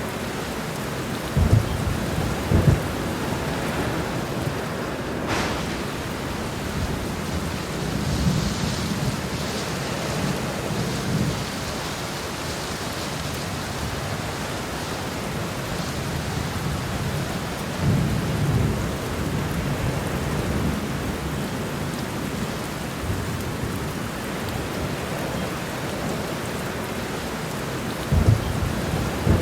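Heavy rain falling steadily, with thunder rumbling several times: sharp low claps in the first few seconds, longer rolls about 8 and 18 seconds in, and another clap near the end.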